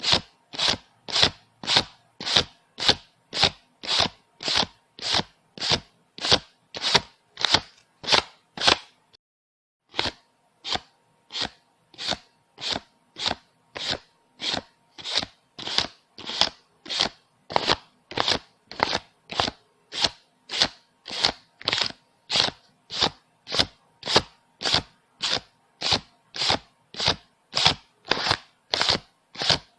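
Paper banknotes counted one by one, each note flicked off the stack with a short crisp snap, a little over two a second. There is a pause of about a second near a third of the way in, then the counting goes on at the same pace.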